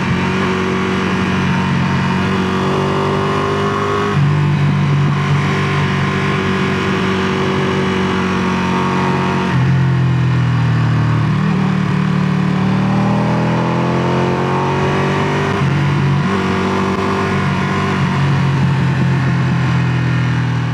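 Ducati Panigale 959's Superquadro V-twin engine running through its exhaust. The note holds steady, shifts pitch about 4 and 9.5 seconds in, then rises in a glide near the middle.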